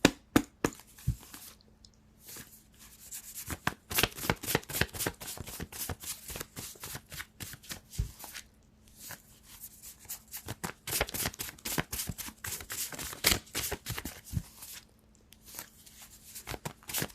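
A deck of tarot cards being shuffled by hand: runs of quick card clicks in several spells, with short pauses between.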